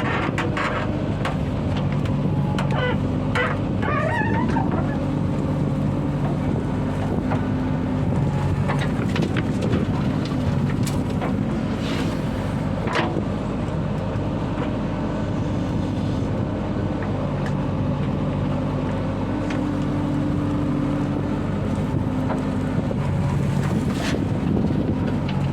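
Diesel engine of a JCB 3DX backhoe loader running steadily, its pitch and level rising and falling as it works under load, with a few sharp knocks partway through.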